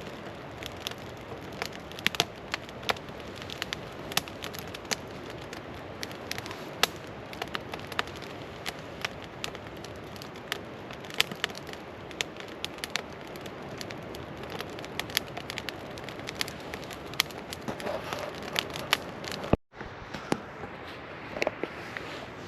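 Wood campfire burning, with irregular sharp pops and snaps over a steady hiss of flames. The sound drops out for a moment near the end.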